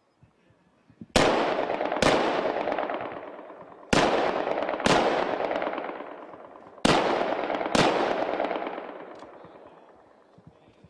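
Shots from HK G36 5.56 mm assault rifles, six in all, fired in three pairs with the two shots of each pair about a second apart. Each pair is followed by a long echo that rolls away over a couple of seconds.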